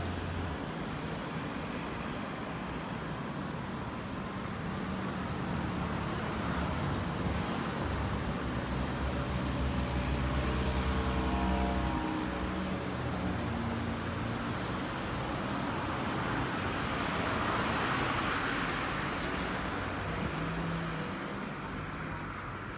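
Vehicles passing in street traffic: a pitched engine or motor tone swells and falls away about halfway through, and a second swell of passing noise comes near the end.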